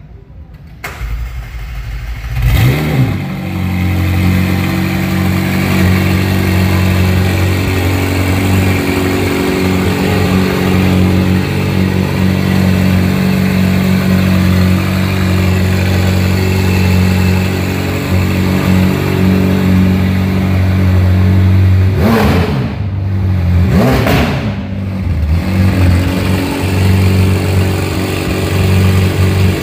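McLaren 720S twin-turbo V8 cranked and started, flaring up as it catches about two seconds in, then idling steadily. It is blipped twice in quick succession about three-quarters of the way through, each rev rising and falling, then settles back to idle.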